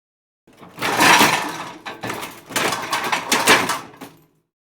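Dishwasher: dishes and cutlery clattering in the racks, in a few loud stretches broken by short pauses.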